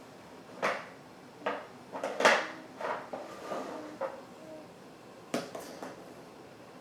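Irregular knocks and clatters of hard objects being handled, about seven in all, some with a short ringing after them.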